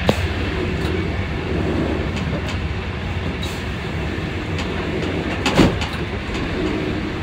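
Intercity train running along the track, heard from the driver's cab: a steady rumble of wheels on rail, with a sharp knock just after the start and a louder one about five and a half seconds in.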